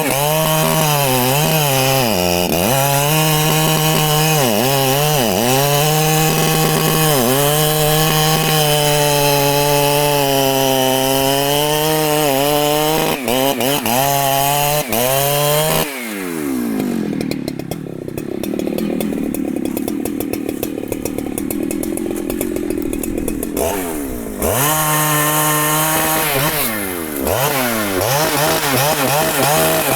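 Large Husqvarna two-stroke chainsaw cutting wood at full throttle, its pitch dipping again and again as the chain bites. About halfway through the revs fall away for several seconds, then the saw revs back up and cuts again.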